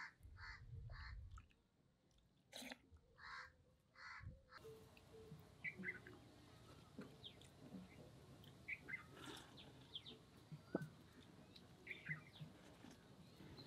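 Faint bird calls: a run of short, evenly repeated calls in the first four seconds, then scattered short chirps.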